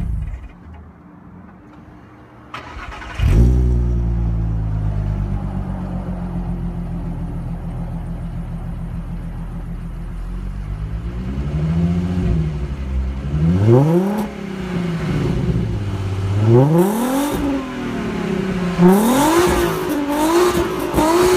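Audi A3 engine through a Supersprint header, cats and Neuspeed cat-back exhaust, starting up suddenly about three seconds in and idling steadily, then revved in four or five blips from the middle on, each rising and falling back.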